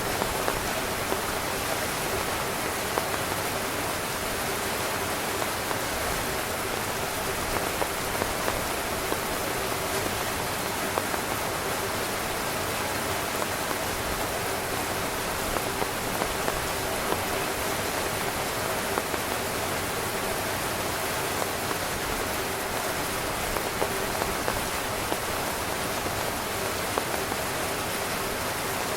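Heavy rain pattering on a tent's fabric: a dense, steady hiss of rainfall with many scattered louder drop taps.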